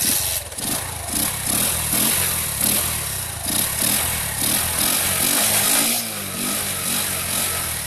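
Motorcycle engine starting suddenly and being revved repeatedly in short blips, then in smoother rises and falls. It runs with the air-filter intake pipe removed, so air is drawn straight into the filter box, the change meant to give it a louder sports-bike note.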